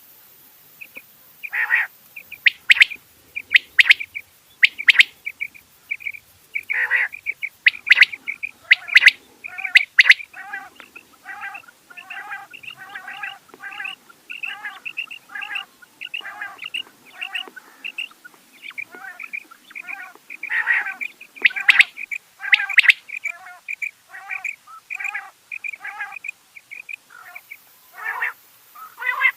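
Rain quail calling: a long run of short, sharp notes repeated about twice a second, with louder, denser bursts of calls near the start and again about two-thirds of the way through.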